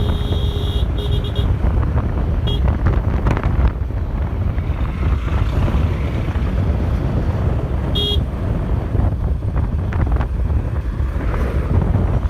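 Motorcycle riding with heavy wind rumble on the microphone over the engine. A horn gives a few short beeps near the start, one about two and a half seconds in, and another about eight seconds in.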